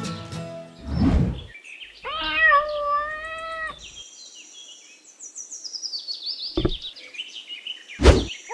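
A single drawn-out animal call, close to a meow, lasting about a second and a half, followed by small birds chirping in quick runs that step down in pitch. A dull thud comes about a second in, and two short knocks sound near the end.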